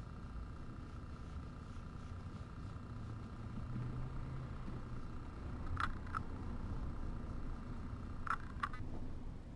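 A steady low rumble with a faint steady hum, and two pairs of short sharp clicks or squeaks about six and eight seconds in.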